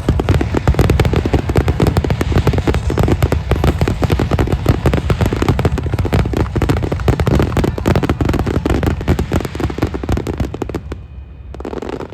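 Fireworks finale barrage: a dense, continuous run of rapid bangs and crackle from many shells bursting at once, with a heavy rumble underneath. It dies away about eleven seconds in.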